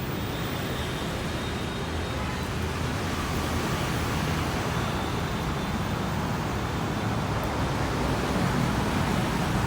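Airbus A330-323 airliner's jet engines on final approach: a steady roar that slowly grows louder.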